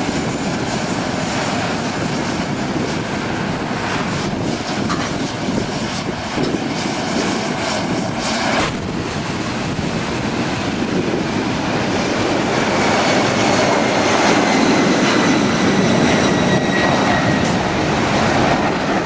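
Airliner engine noise, a loud steady rush that changes abruptly about nine seconds in. After that it grows louder, with a high whine slowly falling in pitch.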